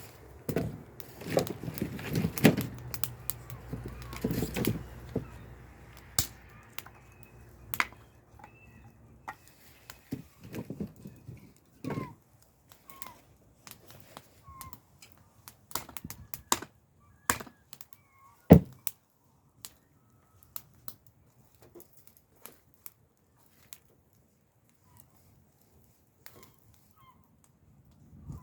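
Scattered knocks and clicks, busiest with a low rumble in the first five seconds and sparse after that, with a few faint bird chirps.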